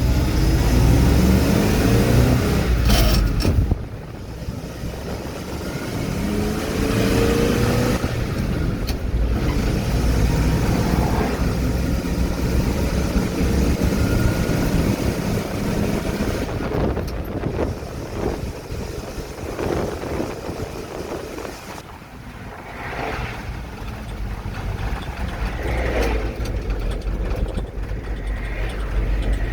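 Old truck's engine running while driving, with rattles and knocks throughout. The engine revs up near the start, its sound drops off abruptly about four seconds in, and it rises again about seven seconds in. The owner blames the engine's repeated cutting out on a loose wire he can't find.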